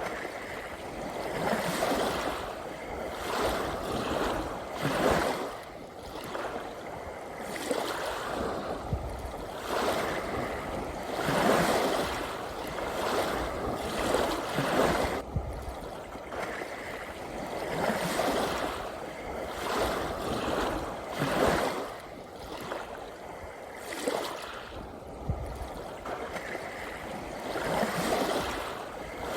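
Sea waves washing in and drawing back in a continuous rush, swelling and easing every couple of seconds.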